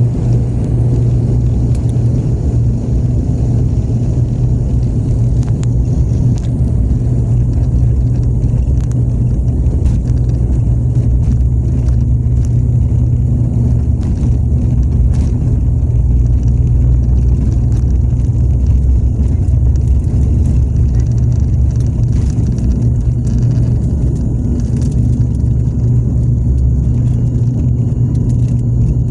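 Steady low rumble of a passenger airliner's engines heard from inside the cabin around takeoff, with faint light rattles.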